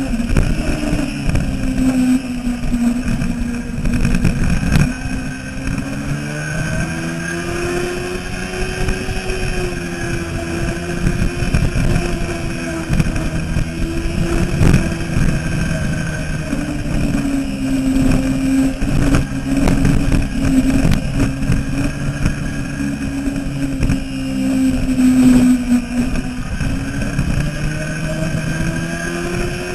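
Yamaha R6's 600 cc inline-four engine running hard on track, its pitch slowly rising and falling as the rider accelerates and eases off through the corners.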